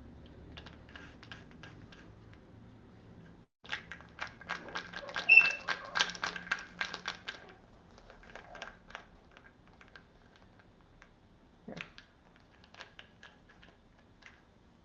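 Moluccan cockatoo's beak working a toy nut and bolt, turning the nut: a run of small quick clicks and taps, densest about four to seven seconds in, with scattered clicks before and after.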